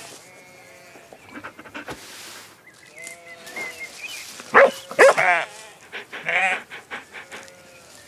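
Cartoon dog vocalising in a run of short barks and yelps, loudest about halfway through.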